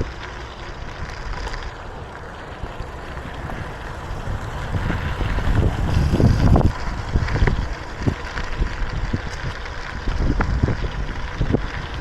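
Wind buffeting the microphone of a moving bicycle rider, in irregular low gusts that are strongest a little past the middle.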